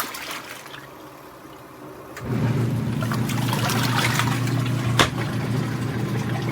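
COSTWAY twin-tub portable washing machine running its wash with water churning in the tub. The motor's steady hum is off for the first couple of seconds and starts up again a little over two seconds in. There is a single sharp click about five seconds in.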